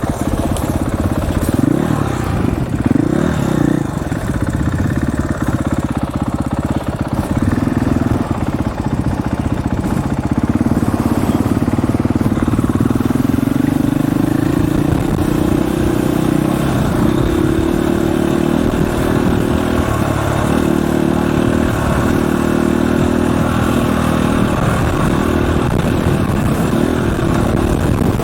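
Dirt bike engine running while being ridden, its pitch rising and falling with the throttle in the first half, then holding steadier.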